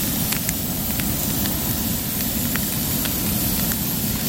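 Wood fire burning strongly with a steady rushing sound and scattered sharp crackles and pops of burning wood.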